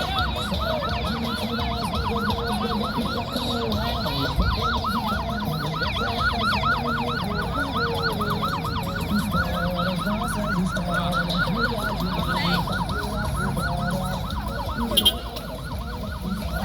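Electronic siren in a fast yelp, about five or six rising sweeps a second, over a low rumble. Two sharp clicks come near the end.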